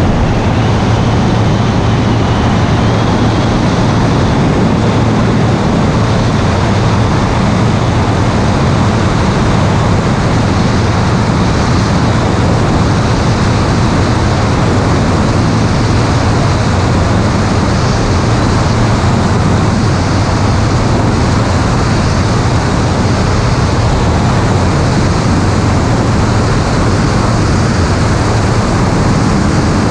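Aircraft engine droning steadily in flight, a constant low hum under loud rushing air noise.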